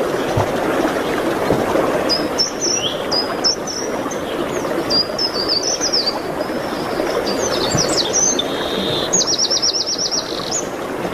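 A songbird singing a string of high chirps and short sliding notes, ending near the end in a fast trill of repeated notes, over a steady background hiss.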